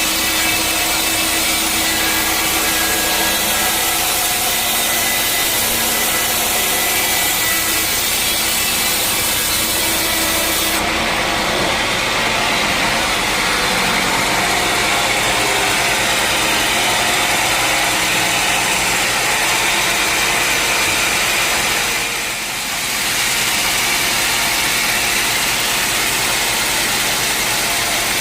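Sawmill saw cutting steadily through a teak log, with the machine running underneath. The sound changes about eleven seconds in and dips briefly a little past twenty seconds.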